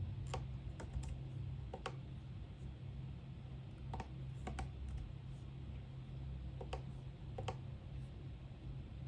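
Scattered keystrokes on a computer keyboard, single taps and quick pairs a second or more apart, over a steady low hum.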